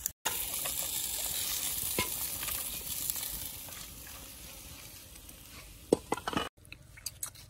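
Spiders and leaves frying in oil in a wok: a steady sizzle that fades away gradually over several seconds, with a few light clicks near the end.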